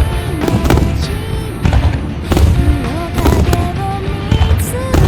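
Fireworks bursting, with repeated sharp bangs and deep booms, over music playing throughout.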